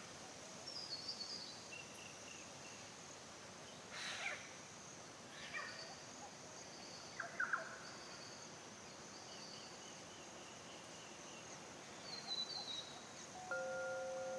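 Forest birds calling and singing over a steady high hiss: short falling chirp phrases about a second in and again near the end, with a few harsher calls in between. Near the end, wind chime tones begin ringing.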